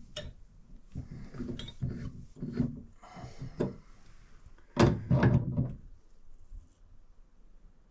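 Irregular knocks, clicks and clatter from shower valve parts and hand tools being handled and fitted. There is a short scraping rub about three seconds in and a burst of louder knocks about five seconds in.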